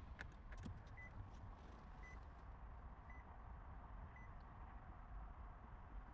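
A vehicle's warning chime beeps four times, evenly about a second apart, over a faint low rumble.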